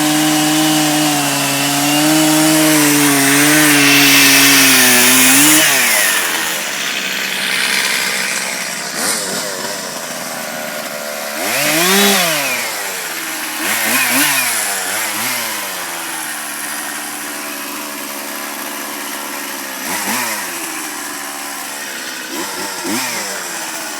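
Two-stroke chainsaw running at high throttle for about five seconds, then dropping back and running slower, with several brief revs up and down.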